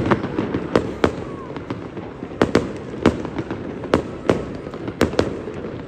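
Fireworks display: sharp bangs of shells bursting, about a dozen at irregular intervals, over steady background noise.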